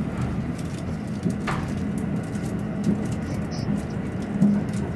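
Cabin running noise of a JR East E217 series electric train: a steady low rumble of wheels on rail, with a soft recurring beat about every second and a half and a brief click about a second and a half in.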